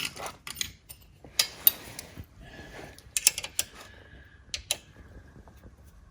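Metal hand tools, an Allen key and a wrench, clicking and clinking against bolts and metal parts in an irregular series of sharp taps, loudest about a second and a half in and again about three seconds in.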